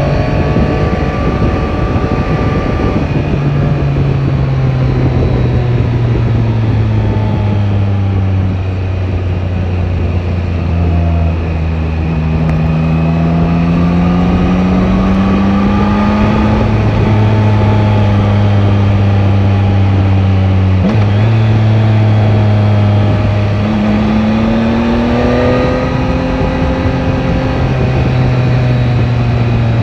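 Yamaha Tracer 9 GT's three-cylinder engine under way, its note rising and falling with the throttle, with a sharp break about twenty seconds in. Wind rush runs underneath.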